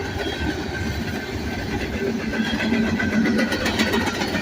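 Freight train cars rolling past: a steady rumble of wheels on rail with a faint steady squeal, and a quick run of wheel clacks over rail joints near the end.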